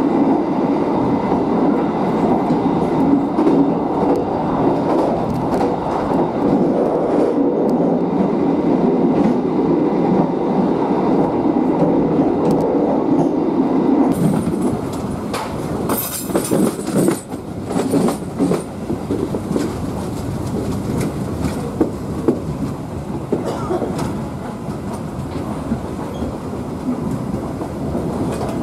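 Stainless-steel passenger train running on the track, heard from inside its rear carriage: a steady heavy rumble. About halfway through the sound changes abruptly to a lighter run, with a cluster of sharp clicks as the wheels pass over rail joints.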